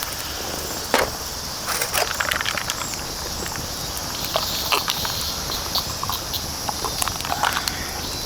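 Insects droning steadily in a summer forest, with scattered light clicks and knocks throughout.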